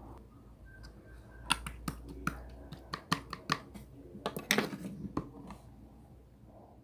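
A series of about a dozen irregular sharp clicks and taps, starting about one and a half seconds in and stopping a little after five seconds.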